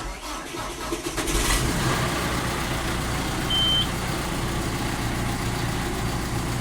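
2013 John Deere 6115D tractor's four-cylinder diesel cold-starting: it cranks for about a second, catches, and settles into a steady idle. A short electronic beep sounds about halfway through.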